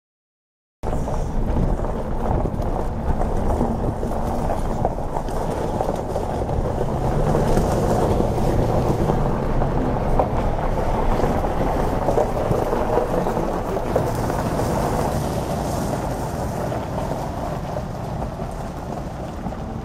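Union Pacific diesel freight locomotives passing close by, a loud, steady running noise. It starts abruptly about a second in and eases slowly near the end as the train moves away.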